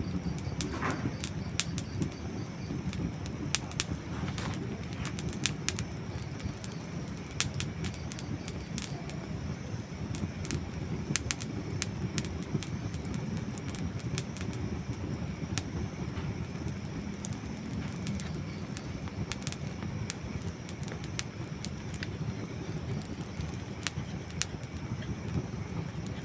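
Campfire of dry wood burning, with frequent sharp crackles and pops over a steady low rush.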